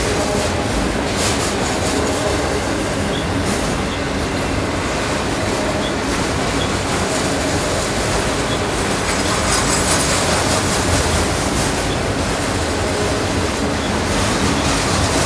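Freight train autorack cars rolling past close by: a steady rumble of steel wheels on the rails, with a few faint held tones above it.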